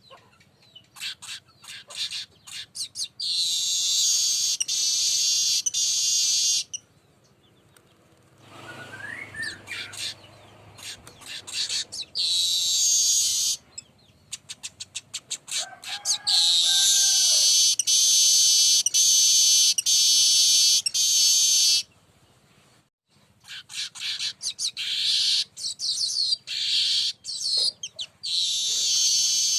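Weaver bird (burung manyar) singing over and over: each song starts as a run of dry ticks that speed up and runs into a long, high, wheezy buzz of a few seconds. A fainter, lower call is heard briefly about a third and about half of the way in.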